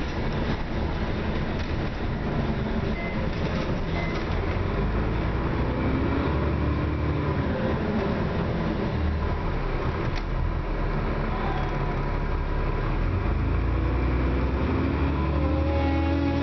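A Dennis Trident double-decker bus running, heard from on board: a low engine rumble with road and body noise. Near the end a whining tone comes in as the bus pulls harder.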